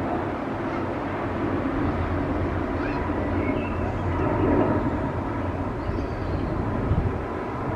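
Boeing 787 Dreamliner's jet engines on landing approach: a steady rumble that swells slightly about halfway through.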